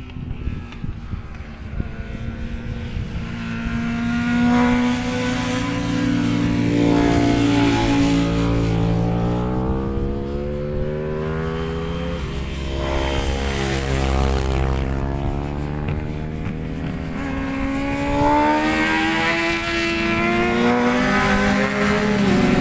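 Racing motorcycles lapping the circuit, their engines rising and falling in pitch as they pass. One pass swells and fades through the middle, and another builds towards the end, over a low wind rumble on the microphone.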